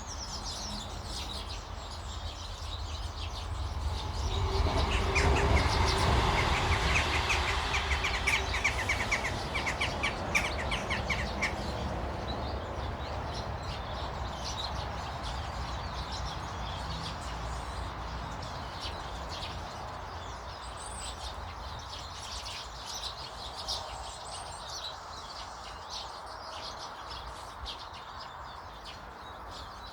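Garden birds chirping and calling. About four seconds in, a louder swell of rumbling noise builds and then fades away by about twelve seconds, with a rapid rattling run of ticks near its end.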